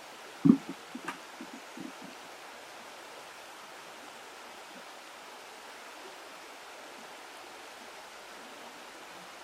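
Steady rush of flowing water. About half a second in, a sharp thump and then a few smaller knocks that die away within a couple of seconds.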